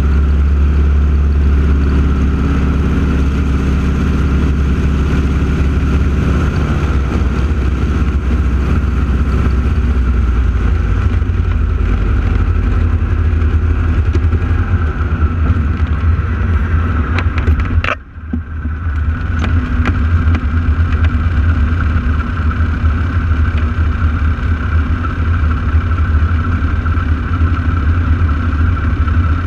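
Radial piston engines of T-6 Texan aerobatic planes running steadily during a display, a deep continuous drone. About two-thirds of the way through, the sound cuts out for a moment and then returns.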